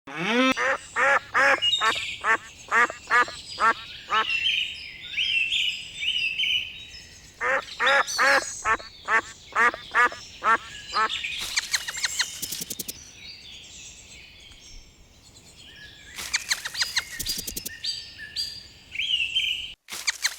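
Ducks quacking in two runs of quick, evenly spaced calls, about three a second, with higher chirping calls and bursts of fast chattering calls between them.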